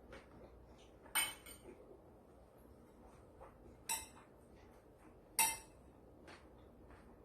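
Eating utensils clinking against a dish: three sharp clinks with a short ring, about a second in, near the middle and a little later (the loudest), with a few lighter ticks between.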